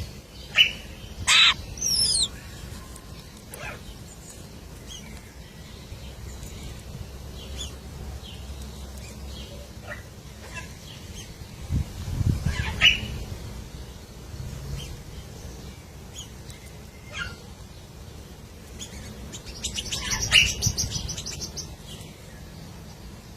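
White-rumped shama giving scattered short chirps and whistles a few seconds apart, with a quick falling whistle in the first two seconds and a rapid buzzy run of notes about twenty seconds in.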